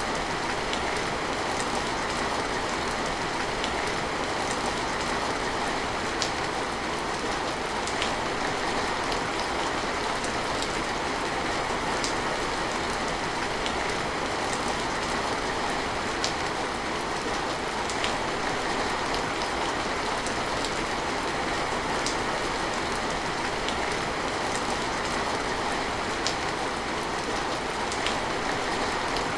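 Steady rain falling, an even hiss with sharp ticks of individual drops striking surfaces at irregular intervals.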